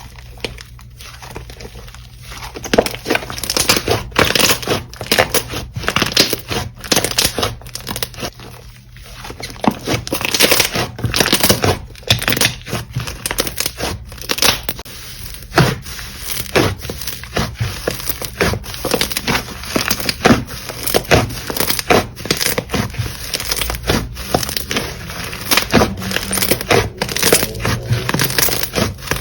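Slime being pressed and stretched by hand, giving a dense, irregular run of crackling clicks and pops.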